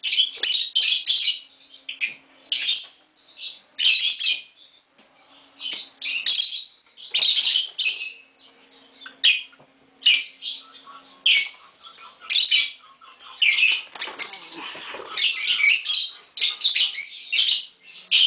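Lovebirds chirping and squawking in quick, shrill bursts, several a second, with brief pauses between runs.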